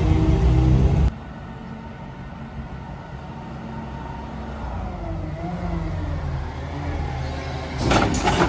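Mack LR garbage truck's CNG engine running loudly, cutting off suddenly about a second in, followed by a quieter engine sound whose pitch slowly rises. A rush of noise starts near the end.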